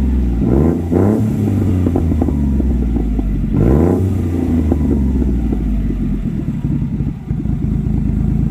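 Honda Acty HA4's small three-cylinder engine idling through an aftermarket dual-muffler exhaust with a 2" inlet and 3.5" outlet. It is blipped twice in quick succession about half a second in, revved again around three and a half seconds in, and drops back to a steady idle each time.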